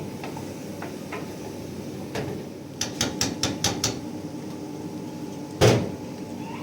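A quick run of about six sharp taps, like light hammer blows, then one heavier knock near the end.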